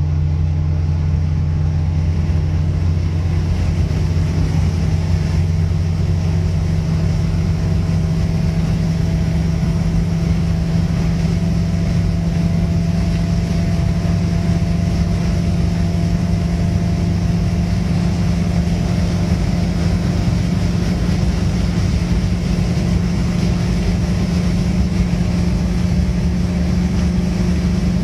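1985 Tofaş Doğan's engine running hard at motorway speed, a steady drone with road noise, its pitch slowly climbing as the car gathers speed toward its top speed.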